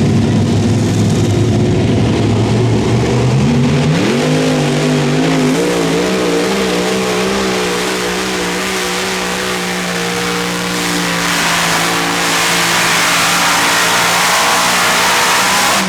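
Super modified pulling tractor's engines under full power on a pull. The engine note climbs steeply about four seconds in, then holds at high revs with a wavering pitch while a higher whine builds, and the sound drops away sharply at the very end.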